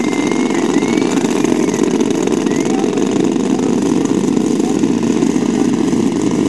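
Boeing B-29 bomber's radial piston engines running, a loud steady drone with no change in pitch.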